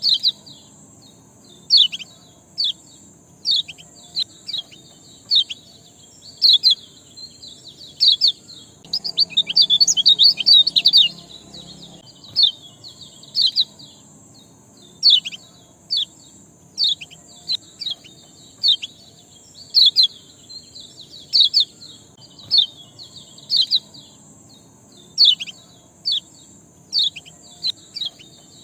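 A small songbird giving sharp, downslurred chirps about once a second, with a quick run of rapid chirps about ten seconds in, over a steady faint high hiss.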